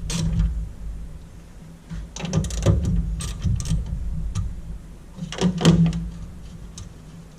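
A socket ratchet and metal parts clicking and knocking in short irregular bursts while 10 mm bolts are undone on a car's engine bay, over a low steady hum.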